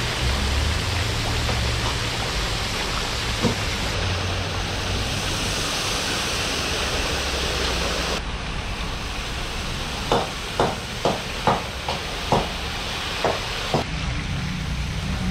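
Julienned carrots frying in oil in a large plov kazan, giving a steady sizzling hiss. From about two-thirds of the way in comes a quick run of a dozen or so sharp knocks.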